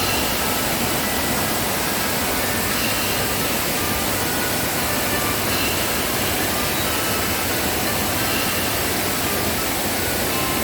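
A waterfall in full rainy-season flow, its water rushing down the cascade in a steady, unbroken noise. A few faint short high tones sound over it now and then.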